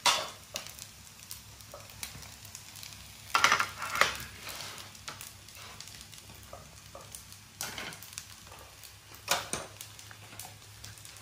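Corn fritter frying in oil in a pan, a steady light sizzle, broken by a few sharp clatters of a utensil against the pan or tray.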